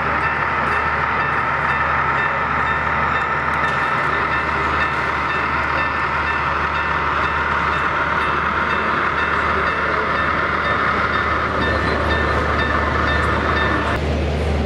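Steady running sound of a train rolling along, an even rumble with a hissing upper layer; the upper part of the sound cuts off abruptly shortly before the end.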